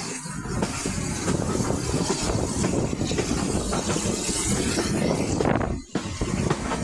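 Heritage passenger train running along the line, heard from an open carriage window: a steady rumble and clatter of the coaches' wheels on the rails, with wind buffeting the microphone. The sound dips briefly about a second before the end.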